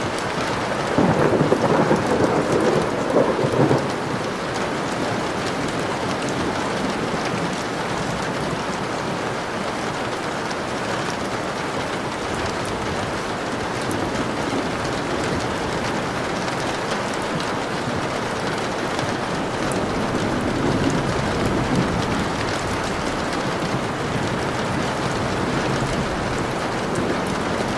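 Steady rain falling, with a rumble of thunder about a second in that lasts a few seconds.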